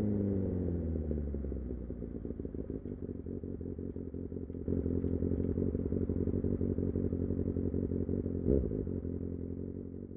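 Kawasaki Ninja ZX-6R inline-four engine dropping in revs to idle, then idling with an even low pulse. A single thump comes about eight and a half seconds in, and the sound fades out near the end.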